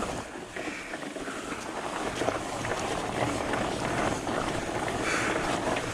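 Fat bike climbing a dirt trail: steady tyre and drivetrain noise with scattered rattling knocks, and wind buffeting the camera microphone.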